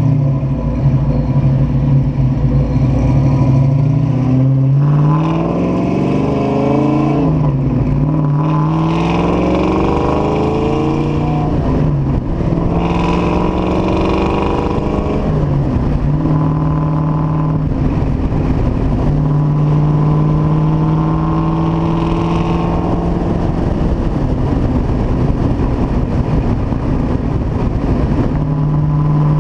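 Freshly built 1990 Mustang 5.0 V8, a 311 ci .060-over small block with a Comp XE274HR hydraulic roller cam, breathing through an off-road H-pipe with no catalytic converters. It idles for about five seconds, then pulls away and climbs in pitch, shifting up three times, and settles into a steady cruise. The engine is being broken in.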